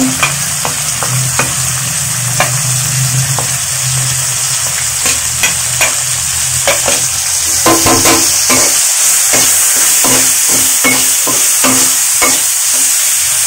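Sliced onions sizzling in hot oil in a karahi, with scattered light clicks of a spoon as ground spices go in. From about halfway, a steel spatula scrapes and knocks against the pan at about two strokes a second as the mixture is stirred.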